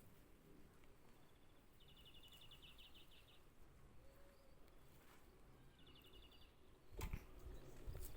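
Quiet outdoor background with a small bird's high, rapid trill, heard twice, the first lasting about a second and a half. Near the end come a few louder dull bumps.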